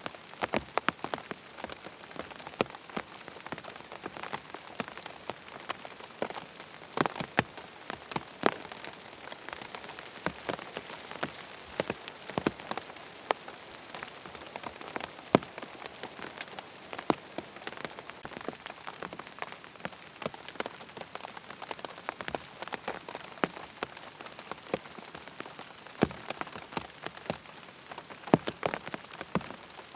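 Steady rain falling, an even hiss with many sharp, irregular drop ticks scattered through it.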